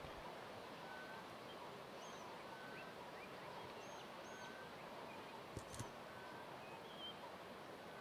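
Faint natural background with a soft, steady hiss and thin, short bird notes repeating every second or two. A couple of faint clicks come a little past halfway.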